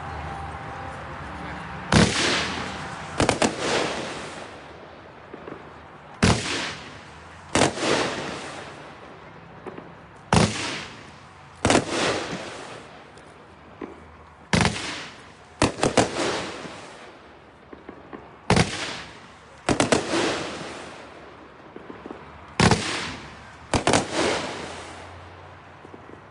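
A 24-shot consumer firework cake ("Hitman") firing: sharp bangs in pairs and small clusters about every four seconds, each trailing off in a short echo.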